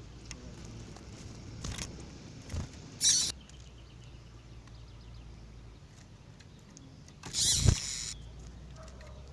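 Double-collared seedeater (coleiro) calling: two short, sharp calls, about three seconds in and again near the end, over a low steady hum.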